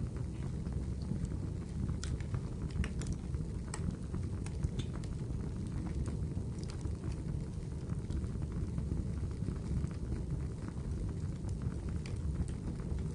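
Fire in a fireplace, crackling and popping irregularly over a steady low rumble.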